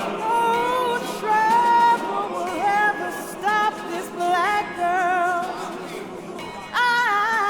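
A solo singing voice holding long notes with wide vibrato and sliding from note to note in a melismatic line. Several louder sung notes start about seven seconds in.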